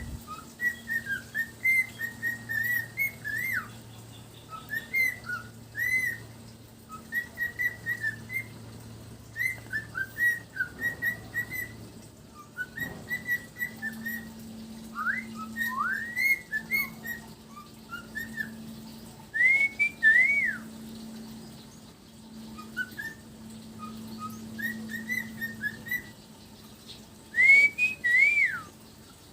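Pet parrot whistling: quick runs of short chirpy whistled notes, with louder rising-and-falling swoops about twenty seconds in and again near the end. A faint steady low hum runs underneath.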